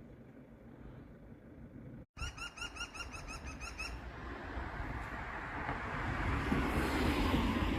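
Green woodpecker giving its laughing yaffle call: a quick run of about a dozen ringing notes, lasting under two seconds, starting about two seconds in. Afterwards a rush of noise swells, loudest near the end.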